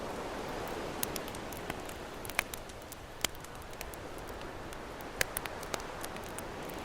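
Campfire crackling with scattered sharp pops over the steady wash of ocean waves, the surf swelling at the start and again near the end.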